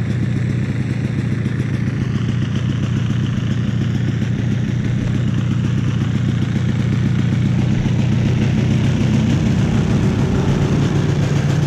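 1982 Yamaha Bravo snowmobile's single-cylinder two-stroke engine idling steadily while it warms up after a cold start in sub-zero weather, getting a little louder about halfway through.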